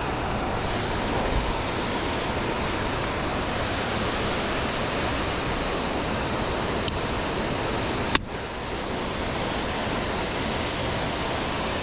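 Steady rush of creek water pouring over a waterfall, an even noise with a brief break about eight seconds in.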